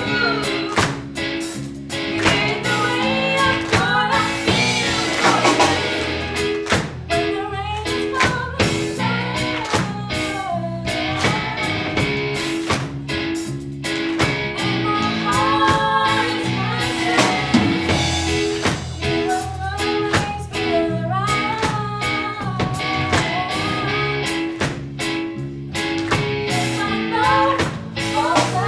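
Live music: a singing voice over a band backing with guitar and drums, playing steadily.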